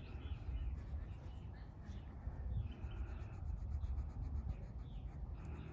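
Hand coloring on paper: short scratchy strokes of the coloring tool across the page, over a steady low outdoor rumble.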